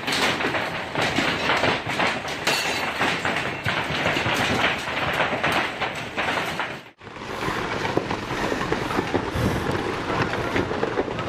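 Hailstones pelting down in a dense, continuous clatter of hard impacts. About seven seconds in, the sound cuts out briefly and a lower, heavier rumbling clatter takes over.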